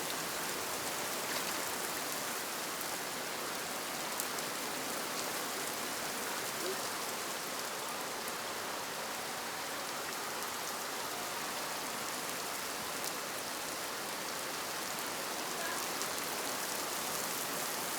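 Steady rain falling: an even hiss with a few scattered drop taps.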